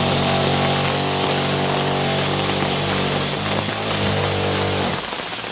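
A steady engine drone that cuts off abruptly about five seconds in, giving way to the sound of rain.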